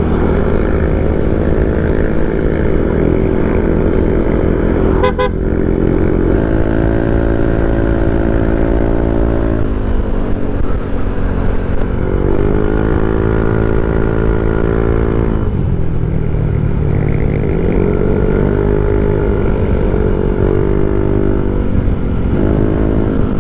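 Yamaha 155 cc scooter's single-cylinder engine running under way, its pitch dropping and climbing again twice, about ten and sixteen seconds in, as the throttle is eased and reopened. A brief sharp sound about five seconds in.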